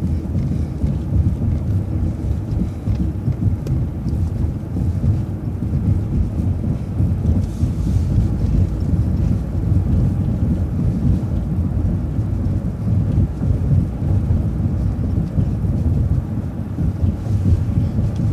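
Steady low road and engine rumble of a moving vehicle, heard from inside as it drives along.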